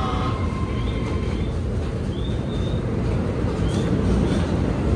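Steady low rumble of a commuter train standing at a station platform, with general platform bustle and a few short rising chirps.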